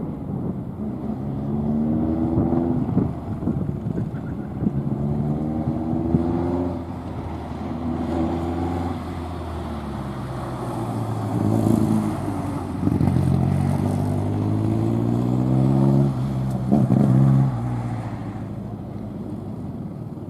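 A car's engine revving hard and easing off again and again as it accelerates, brakes and turns through a gymkhana course, its pitch climbing through each burst and dropping at each lift. It fades near the end.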